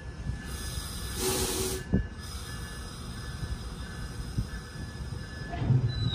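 GO Transit bilevel train standing at the platform with a steady low rumble. About half a second in comes a hiss of air lasting just over a second, then a single knock.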